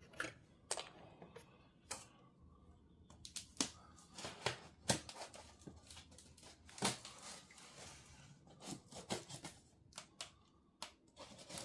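Irregular light clicks and taps from objects being handled, with a few louder knocks scattered through.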